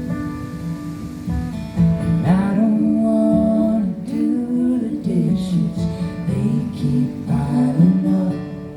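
A live band playing a song intro led by strummed acoustic guitar, with a sliding melody line coming in over the chords about two seconds in.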